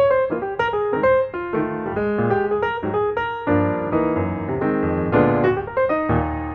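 Background piano music: a flowing melody of single notes, with fuller chords joining about halfway through.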